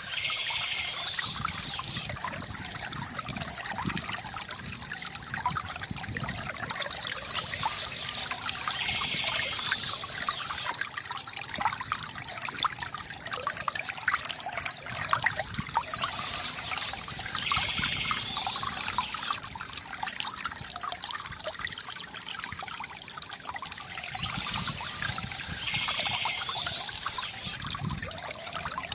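Stream water trickling and splashing steadily, with birdsong coming in four times, about every eight seconds.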